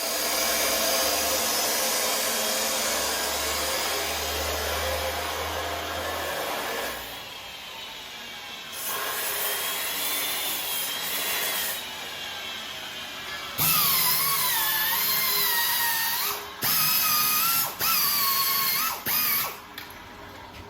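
Power tool running on metal exhaust parts during muffler fabrication, its pitch wavering as it bites under load, stopping and restarting several times near the end.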